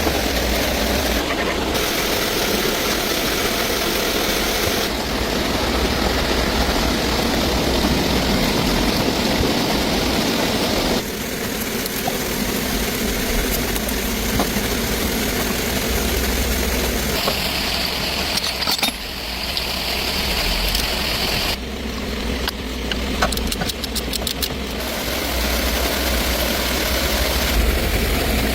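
Steady mechanical noise of a running engine or motor, with a strong low hum. Its character changes abruptly several times, with a short run of ticks a little after the middle.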